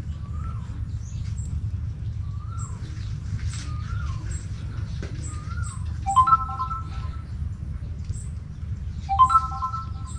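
Birds calling outdoors: short curved whistled notes repeated about once a second, and twice a louder held call of three steady tones together, about three seconds apart. A steady low hum runs underneath.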